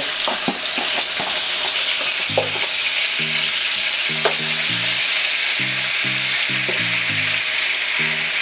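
Raw shrimp sizzling steadily in hot frying oil in a nonstick pan, with a few light clicks as they are laid in and turned with tongs. Short low notes of background music play along from about two seconds in.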